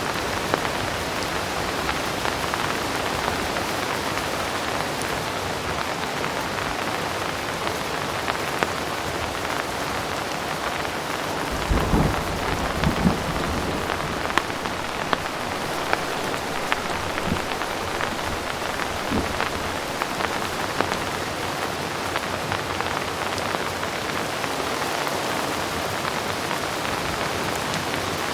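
Heavy rain falling steadily, with scattered sharp drop ticks. A low rumble of distant thunder comes about halfway through and lasts a couple of seconds, followed by a few fainter rumbles.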